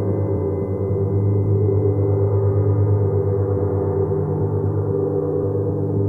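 Gong ringing in a sustained, deep wash of overlapping low tones that waver rapidly in loudness, with no fresh strike.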